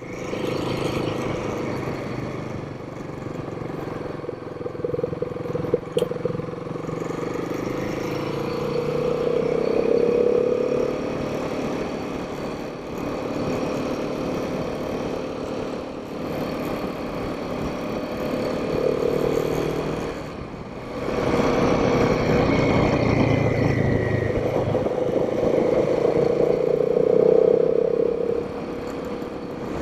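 Royal Enfield Himalayan 452's single-cylinder engine running at road speed, heard from the bike over wind and road noise. Its pitch rises and falls with the throttle, and there is a brief dip about two-thirds of the way through before it pulls again.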